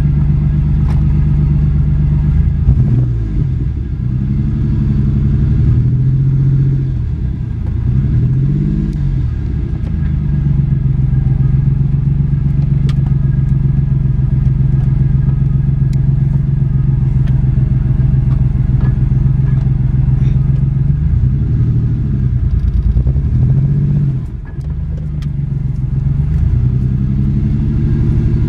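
Vehicle engine running steadily while driving. Its pitch dips and climbs back a few times as the engine speed changes.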